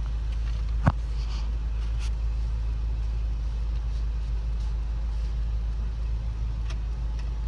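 Car engine idling with a steady low rumble, heard from inside the cabin, with one short click about a second in.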